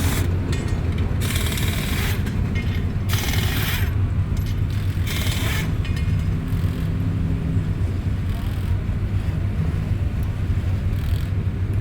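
A motor vehicle's engine running with a steady low rumble. Several short bursts of higher-pitched noise come over it, most of them in the first six seconds.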